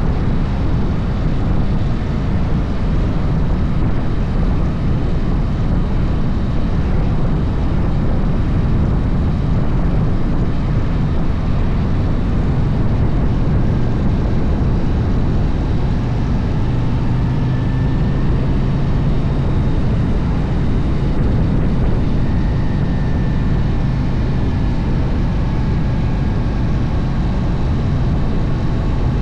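Harley-Davidson motorcycle under way: a steady engine drone mixed with a loud, even rush of wind noise, with no sharp changes in speed or throttle.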